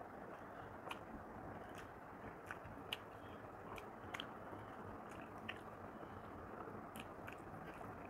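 Faint, close-miked chewing of a mouthful of rice and mutton curry, with scattered sharp clicks and smacks, about ten of them, as fingers mix rice on the plate.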